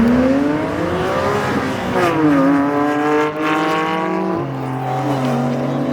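A performance car's engine accelerating hard as it leaves. Its pitch climbs, falls back, climbs again and drops suddenly about four and a half seconds in, as at an upshift.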